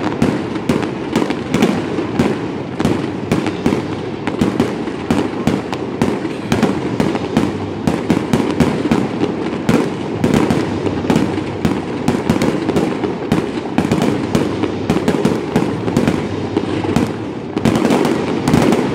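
Aerial fireworks bursting overhead in rapid succession: loud, sharp bangs several times a second with no real pause, growing denser and louder near the end.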